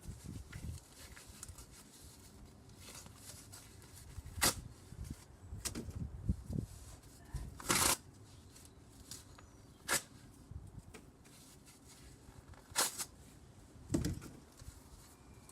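Cardboard box being struck and handled: about six sharp knocks at irregular intervals over quiet rustling.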